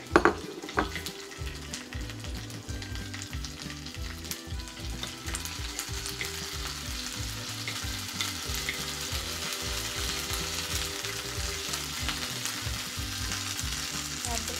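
Diced onion sizzling and crackling in hot oil in a miniature frying pan, stirred with a tiny metal spatula that clicks and scrapes against the pan near the start. The sizzle grows steadily louder.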